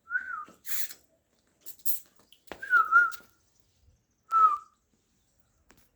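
Three short, wavering whistled notes, the middle one the longest, with brief breathy hissing sounds between the first two.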